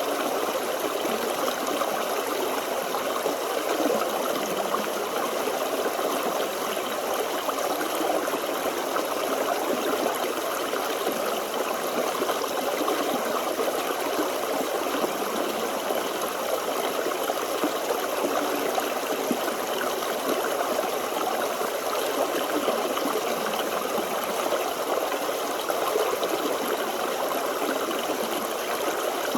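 Forest stream flowing and trickling over stones, a steady even rush of water with no other sounds.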